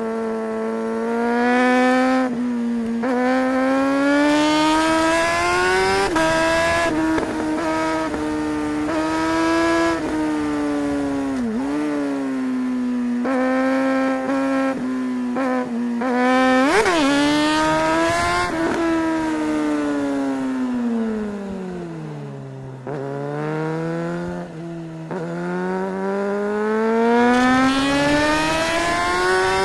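Suzuki GSR 600's inline-four engine pulling hard through the gears, its pitch climbing and dropping back at each upshift. About 17 s in there is a quick sharp rev blip. The engine then winds down to a low note around 22 s and pulls up again toward the end.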